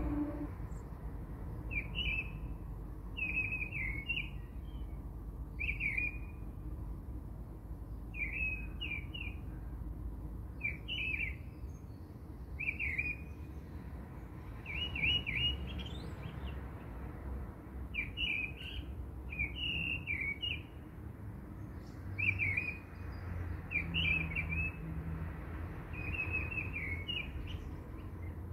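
A small bird chirping short, quick phrases again and again, about every one to two seconds, over a low steady rumble.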